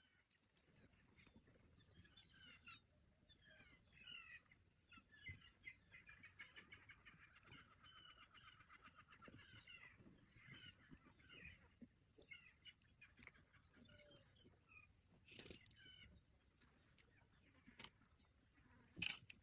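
Faint birds calling over and over, with a rapid chattering run of calls in the middle, and a few sharp knocks near the end.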